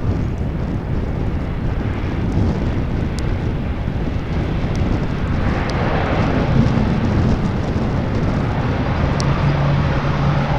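Jet airliner engines running with a steady rumble; a louder hiss swells in about halfway through as the aircraft comes closer, and a steady low hum joins near the end.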